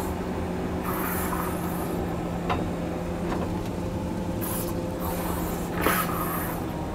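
John Deere 670G motor grader's diesel engine running steadily under load, heard from the operator's seat, with a few short knocks and rattles from the machine about two and a half and six seconds in.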